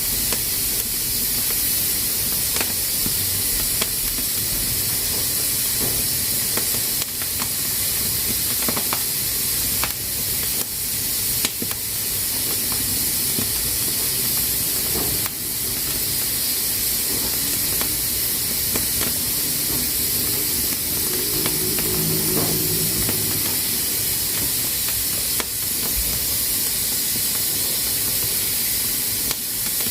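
Pressure cooker steadily hissing steam from its valve, with scattered sharp clicks through the hiss.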